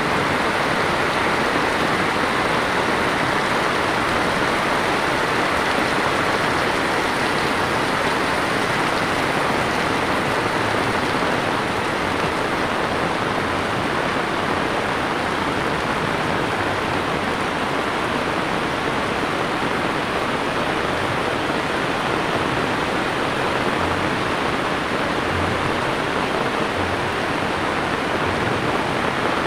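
Heavy rain falling steadily on a wet paved road, a dense, even hiss with no letup.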